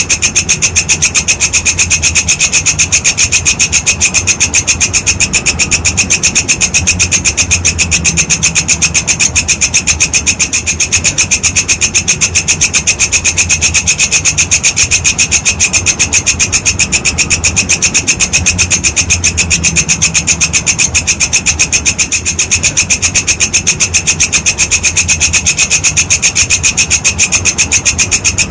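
Walang kecek grasshopper stridulating: a fast, even, unbroken train of shrill rasping pulses.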